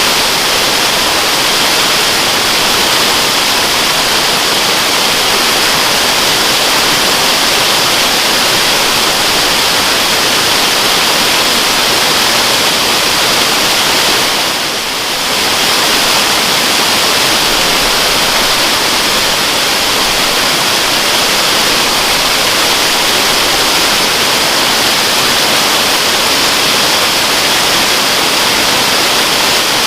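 Waterfall rushing with a steady, even hiss of falling water, dipping briefly in level about halfway through.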